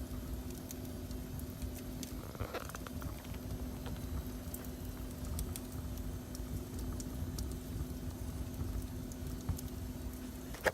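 Wood fire burning in a fireplace: a low, steady rumble of flames with scattered small crackles and pops, and a sharper pop near the end. A steady low hum runs underneath.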